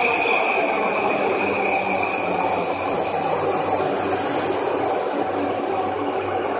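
Electric commuter train pulling in alongside a platform, its cars rolling past steadily with high sustained wheel squeal over the running noise.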